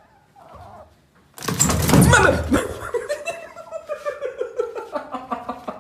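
A sudden loud burst of noise, then a person laughing in quick, repeated pulses.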